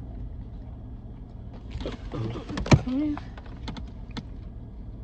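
Steady low rumble of a car in motion, heard from inside the cabin. About two seconds in comes a burst of rustling and then a single sharp click, the loudest sound here, followed by a few lighter clicks.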